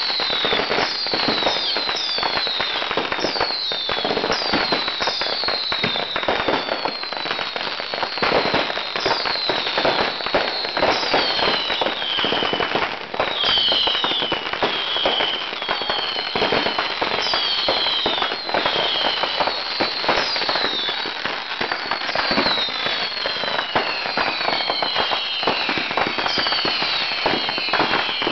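Fireworks going off in a dense, continuous barrage of crackling and popping, overlaid with many short whistles falling in pitch, several a second.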